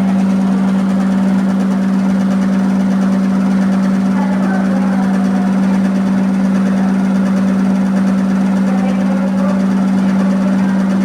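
Electrolux 15 kg commercial washing machine on its final high-speed spin, around 1245 rpm: a loud, steady hum with a wavering squeaking whine over it, the bad squeaking noise this washer makes on the final spin.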